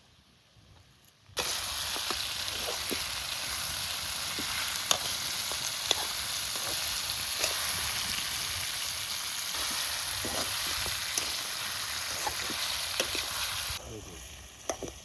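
Food frying in hot oil in a pan: a steady sizzle with scattered sharp crackles and pops. It cuts in suddenly about a second and a half in and drops away sharply near the end.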